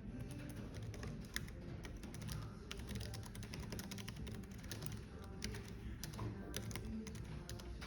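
Typing on a computer keyboard: quick, irregular key clicks over a low café background hum and soft background music.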